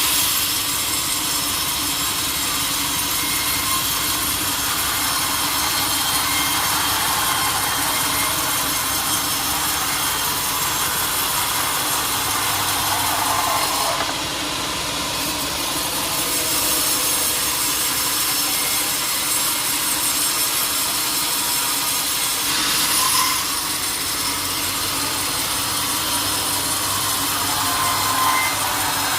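Sawmill blade cutting through a large teak log, a steady loud sawing noise with a short lull about halfway through and a brief swell a little later.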